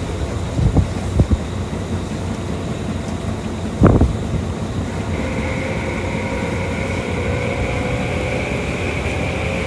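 Tokyu Toyoko Line electric train running: wheels knocking over rail joints in the first second or so, one heavy knock about four seconds in, then the traction motors' whine setting in and slowly rising in pitch as the train gathers speed.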